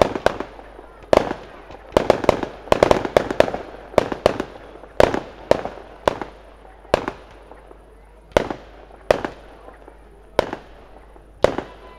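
Aerial fireworks shells bursting: a run of sharp bangs, each with a short fading tail. They come thick and fast over the first few seconds, then thin out to one roughly every half-second to second.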